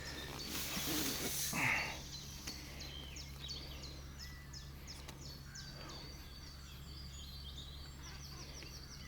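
Small songbird singing a fast run of short, high, down-slurred notes, several a second, starting about two seconds in. Before it there is a brief burst of rustling noise.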